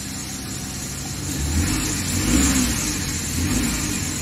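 Suzuki DA64V van's small three-cylinder engine running at idle after its idle air control valve was cleaned of the deposits that kept it stuck shut; about a second and a half in, the engine sound gets louder and rougher as the engine speed picks up.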